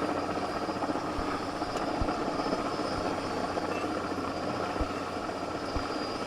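Helicopter used as a crane running close by, a steady rotor and turbine noise with a few low thumps mixed in.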